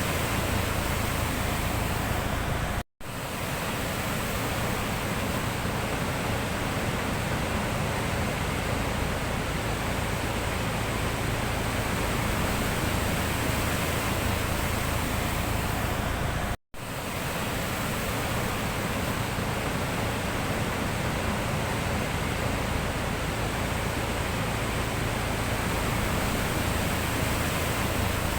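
Sea surf: a steady, even rush of breaking waves, cut off twice by sudden brief silences, about three seconds in and again about halfway through.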